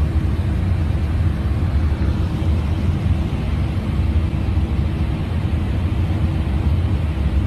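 Steady low drone of an airliner's flight deck at cruise: airflow and engine noise with a faint steady hum above it.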